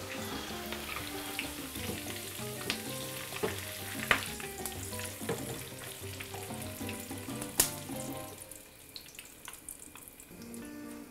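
Thai basil leaves and lemongrass sizzling as they deep-fry in hot oil in a skillet, with a few sharp clicks of a metal slotted spoon against the pan. The sizzling dies down over the last few seconds as the leaves are lifted out.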